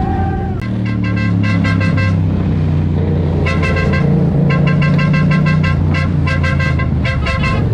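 A vehicle horn beeping in quick, repeated short toots, in several bursts, over a steady running engine.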